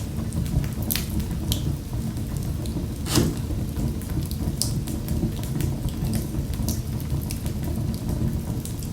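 Fire in a fireplace crackling: a steady low rumble of flames with frequent irregular pops and snaps, one louder pop about three seconds in.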